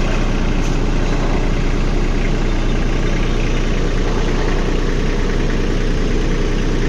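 Captain 8G 283 mini tractor's three-cylinder diesel engine running steadily.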